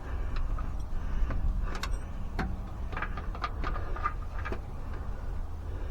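Scattered light clicks and small metal taps from handling hand tools and parts, several in quick succession in the middle, over a steady low rumble.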